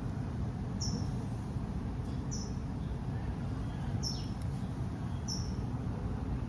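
A short, high chirp repeating about every one and a half seconds, each one falling slightly in pitch, over a steady low rumble.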